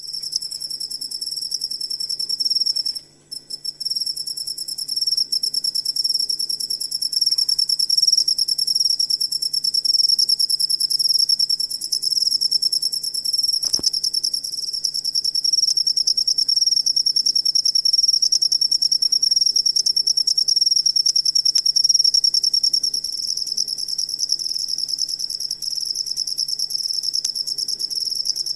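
Cricket trilling continuously in a fast, even pulse, high-pitched. The trill drops out briefly about three seconds in, and a single click sounds about halfway through.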